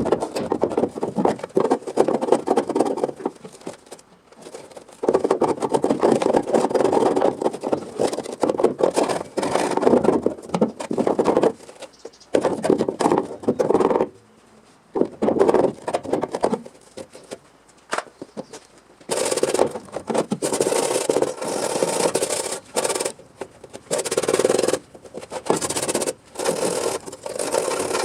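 Stop-start scraping of a tool working the car's rusted sheet-metal body, in bursts of one to three seconds with short breaks; from about two-thirds of the way in the scraping turns brighter and hissier.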